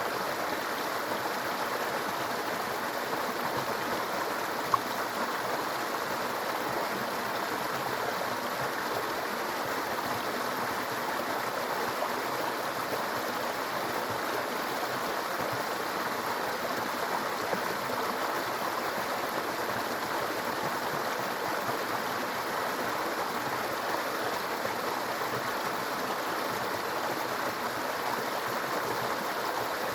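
A small stream babbling steadily. A single brief click stands out about five seconds in.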